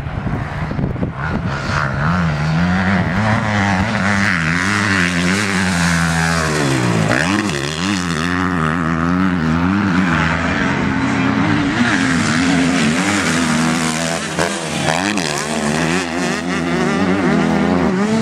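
Motocross bike engines revving on the track. Their pitch rises and falls repeatedly as the throttle opens and closes, with a deep drop and climb about seven seconds in.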